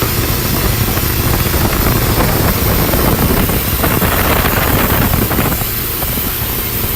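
Speedboat engine running steadily under a loud, even rush of noise that covers the whole range.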